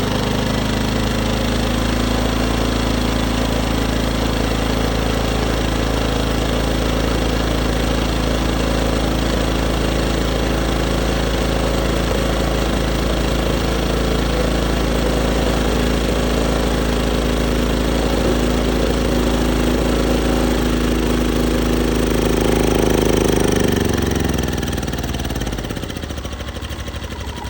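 Westinghouse 2500 inverter generator's small engine running steadily on starter fluid. About 23 s in it surges briefly, then its pitch falls and it winds down near the end. It runs mostly on starter fluid, the sign of a fuel-delivery fault that the owner puts down to a clogged fuel filter or a bad carburetor.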